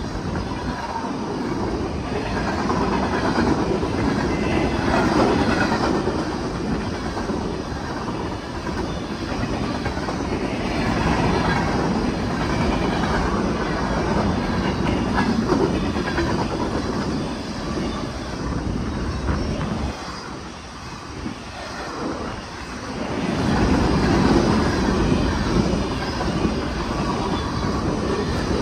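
Freight cars rolling past close by: steel wheels clattering over the rail joints in a continuous rumble that swells and eases as the cars go by, dipping briefly about two-thirds of the way through.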